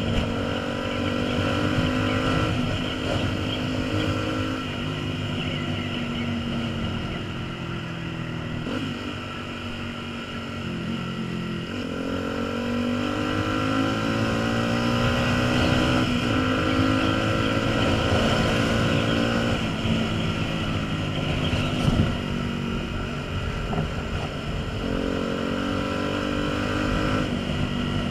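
Honda CBF125 motorcycle engine running on the move, its note climbing and then dropping back several times, with wind noise on the microphone. A single sharp knock about three-quarters of the way through.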